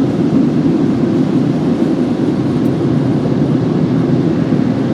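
Automatic car wash air dryer blowers blowing on the car, a loud, steady rushing noise heard from inside the car.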